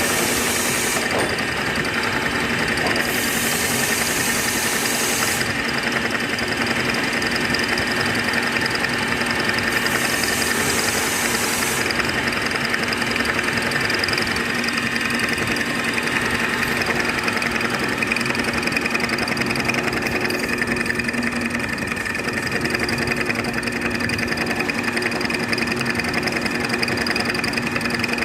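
Lathe running steadily with a keyway attachment, a constant machine hum with a few steady whining tones. Three short bursts of high hiss come over it in the first dozen seconds.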